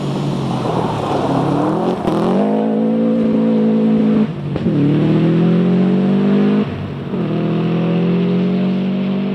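Rally car accelerating hard on a stage, its engine note climbing steadily through the gears with two quick upshifts, about four and seven seconds in, each dropping the pitch before it rises again.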